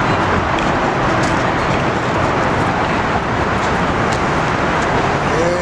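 Steady road traffic noise, an even rush of passing vehicles.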